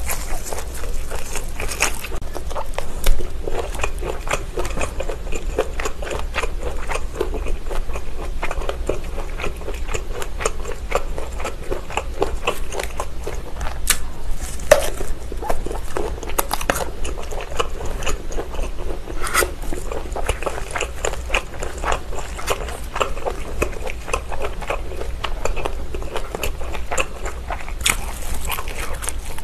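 Biting into and chewing linked Vienna sausages: a continuous run of short wet clicks and crackles, with one louder bite about three seconds in.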